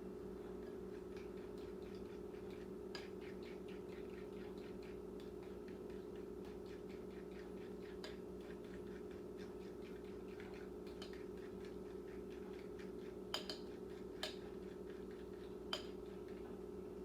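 Microwave oven running: a steady hum with faint ticking about three times a second. A few sharp clicks come near the end.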